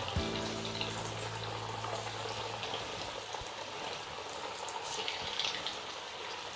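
Breaded potato nuggets deep-frying in hot oil: a steady sizzle and bubbling with faint pops.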